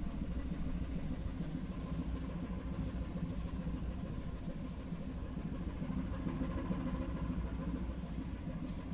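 Ship's engine running with a steady low drone, heard on board while the vessel is under way at sea.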